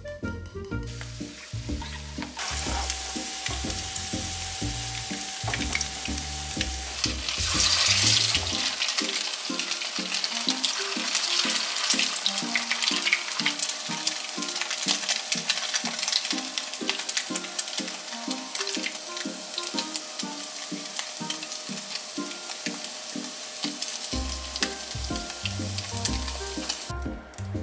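Tofu and chicken nuggets sizzling as they shallow-fry in oil in a frying pan, a dense crackle of spitting oil that starts about two seconds in and is loudest around eight seconds in.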